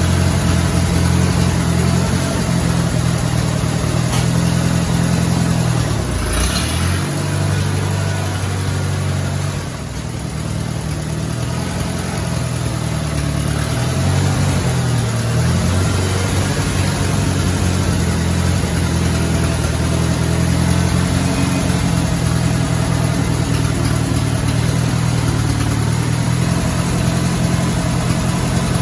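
Allis-Chalmers I-600 industrial tractor engine running, its speed rising and falling a few times. A short noisy swish about six seconds in.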